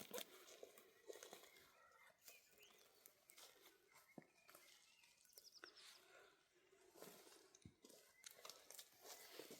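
Faint scattered rustles and light knocks, with a brief run of high chirps about five and a half seconds in.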